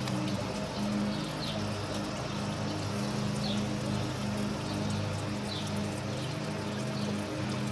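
A small bird chirping short, high, falling notes every second or so, over a steady low hum.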